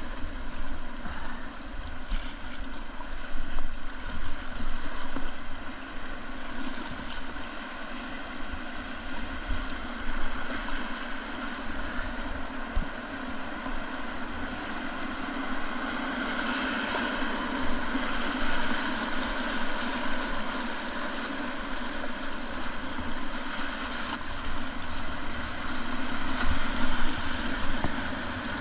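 Whitewater river rushing around a kayak at high flow, a steady dense roar with wind buffeting the microphone. The rush swells louder past the middle and peaks near the end.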